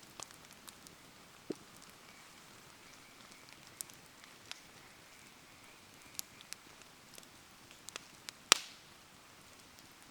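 Wood fire crackling with scattered sharp pops, one much louder pop about eight and a half seconds in, over a faint steady hiss of rain.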